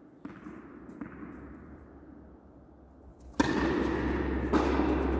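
Faint indoor court noise with a couple of light knocks, typical of a tennis ball being bounced or hit. A little over three seconds in the sound jumps abruptly to a louder, steady hall noise with a low hum, with another sharp knock about a second later.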